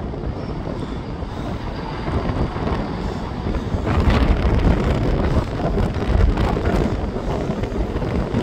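East Midlands Railway Regional train moving through the station: a steady low rumble with wind on the microphone, louder from about four seconds in.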